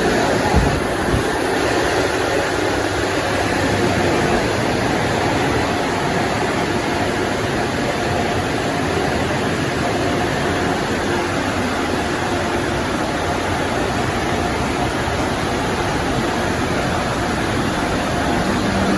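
PDQ LaserWash 360 touchless car wash machine running, a loud steady rushing noise throughout. A brief knock about half a second in.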